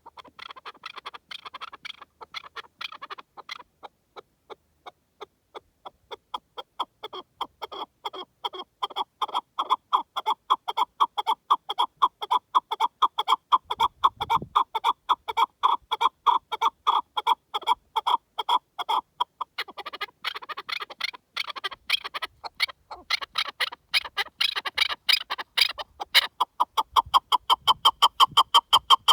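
Partridge calling in a long run of rapid, repeated short notes, many a second, fading for a few seconds near the start and strongest near the end.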